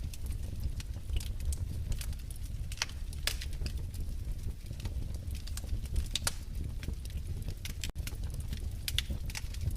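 Wood fire in a fireplace crackling, with irregular sharp pops over a steady low rumble; the sound drops out for an instant about eight seconds in.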